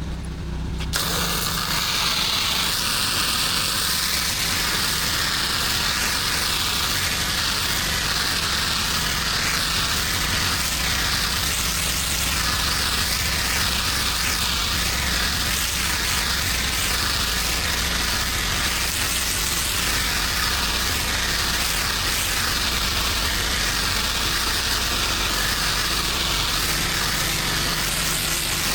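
A pressure-washing rig's engine running steadily, with a high-pressure water spray starting to hiss about a second in and then spraying steadily.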